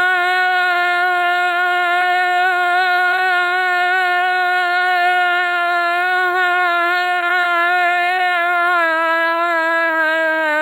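Synthetic AI voice holding one long, unbroken hum-like note with a slight waver, its pitch sinking a little near the end.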